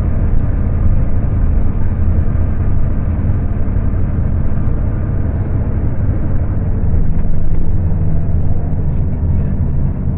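Scania K250UB city bus diesel engine running under way at high revs, a steady low drone that grows a little louder about seven seconds in. Recorded on a phone, so the sound is coarse.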